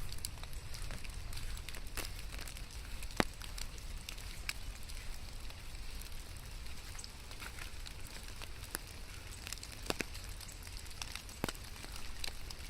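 Rain falling: a steady hiss over a low rumble, with scattered sharp ticks of drops striking close by, a few of them louder.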